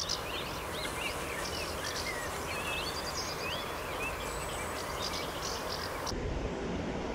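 Outdoor ambience: small birds chirping over a steady hiss. About six seconds in, the hiss and birdsong drop away abruptly, leaving a duller low rumble.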